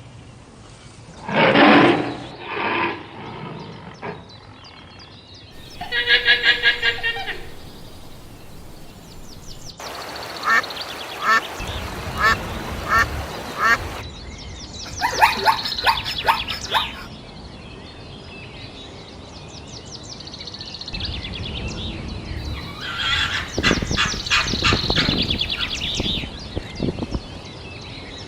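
Waterfowl calling: clusters of short, repeated quacking and honking calls in a string of spliced clips, with quieter gaps of background noise between the clusters.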